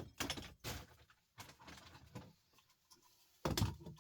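Faint knocks and rattles of a plastic electrical plug casing being handled in a vise, picking up into a run of sharper knocks about three and a half seconds in.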